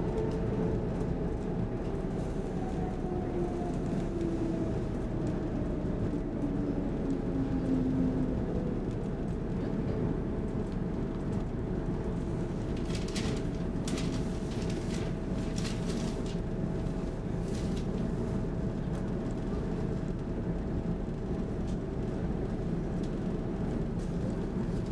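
Inside an SL X10 electric commuter train slowing to a stop at a station. Over the first several seconds the drive's whine falls in pitch under a steady rumble of wheels and running gear, and a few short hissing sounds come about halfway through as the train draws to a halt.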